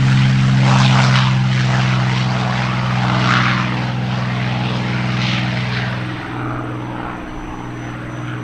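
Aircraft engine running with a steady hum and rushing swells of noise; the hum shifts and eases a little about six seconds in.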